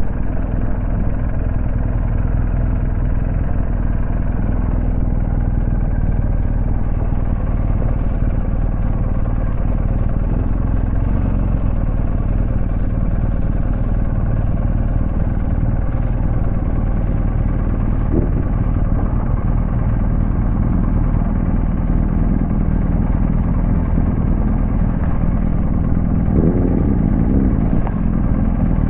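A BMW R1250 GS boxer-twin motorcycle under way: the engine runs steadily under heavy wind and road noise. Near the end the engine note wavers briefly.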